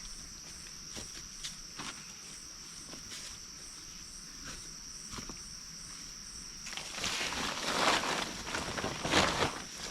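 Insects chirring steadily in a high, even drone with faint scattered clicks; about seven seconds in, loud close rustling and crackling starts over it.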